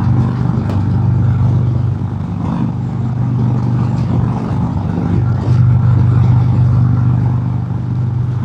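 Harley-Davidson Road King's Milwaukee-Eight V-twin running steadily at highway cruising speed, heard from the rider's helmet mic. It gets a little louder about five and a half seconds in.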